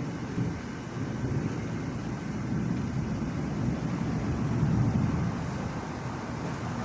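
Distant thunder rolling in a long low rumble that swells about four to five seconds in, then eases off.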